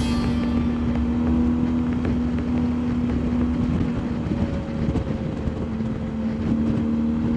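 BMW R1250GS boxer-twin engine running at steady road speed, with wind and road rumble on the microphone. The engine note fades about halfway through and comes back near the end.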